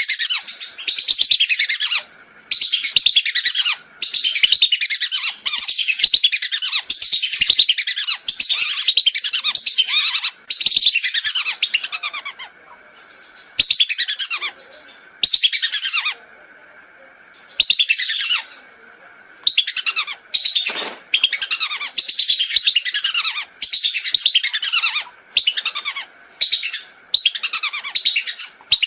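Whistling ducks (belibis) calling: quick series of high, falling whistles in bursts of one to two seconds, separated by short gaps, from a recorded lure call.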